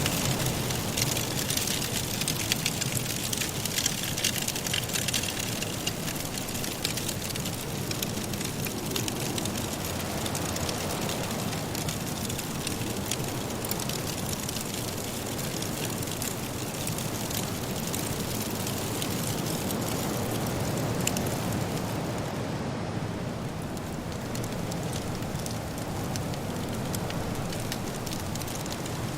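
Firewood crackling and popping in a fireplace, with a steady low rush of blizzard wind underneath.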